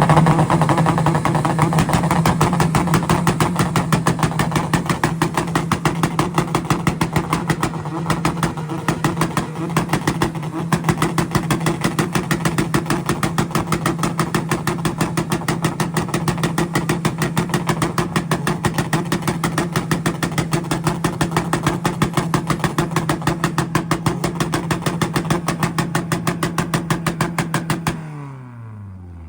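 Tuned Honda and Acura engines held at the rev limiter on two-step launch control, the pitch pinned steady with a fast, even stutter from the ignition cut. The revs drop and the engines go quiet about 28 seconds in.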